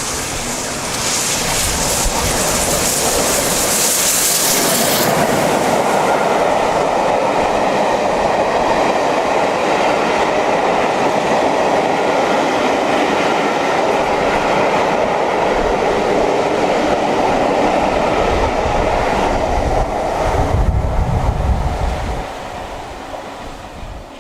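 Steam-hauled passenger train behind A1 Pacific 60163 Tornado running past at speed, its wheels clattering over the rail joints in a steady roar. A loud hiss fills the first few seconds, and the noise fades away near the end as the train recedes.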